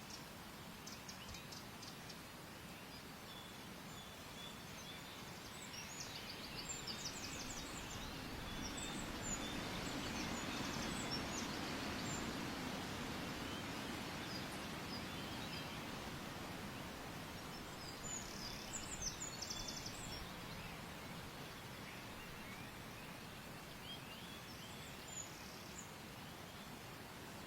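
Steady outdoor noise that swells louder for several seconds in the middle, with small birds chirping and giving short rapid high trills every so often.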